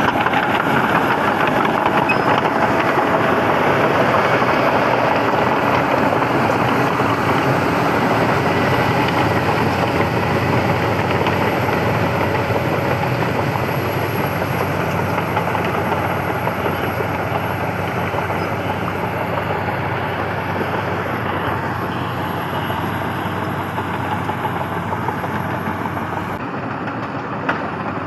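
A machine engine running steadily, easing off a little in loudness towards the end, with one short click near the end.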